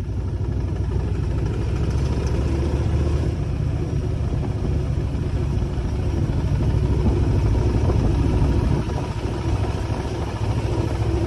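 Motorcycle engine running while being ridden: a steady low rumble with road noise, easing briefly near the end.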